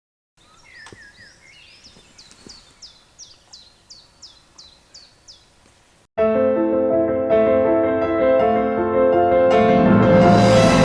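A songbird singing, a run of short falling notes about three a second, over quiet forest background. About six seconds in, music with sustained chords cuts in suddenly and loudly, growing fuller near the end.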